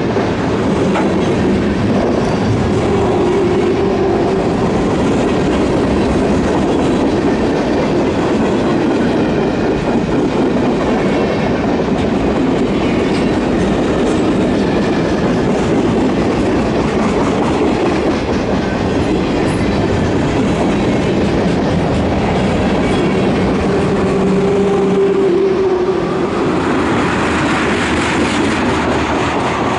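Freight cars of a fast-moving train passing close by: a loud, steady rumble of steel wheels on the rails, with clickety-clack as the trucks cross rail joints.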